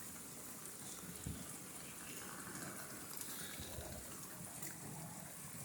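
Steady rain falling hard, an even hiss of water, with two brief low thumps, about a second in and again near four seconds.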